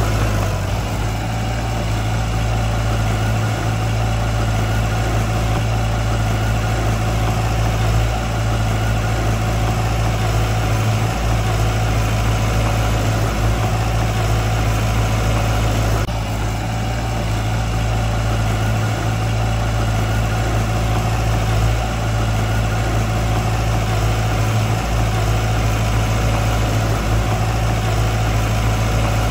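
Heavy construction machine's diesel engine running steadily at low revs, a deep even hum, with a brief break about halfway through.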